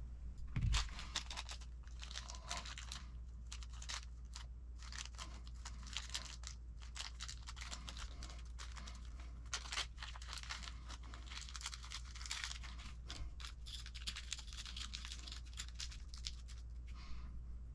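Small plastic parts bags crinkling and rustling as hands sort through them, with irregular light clicks and crackles of small hardware being handled.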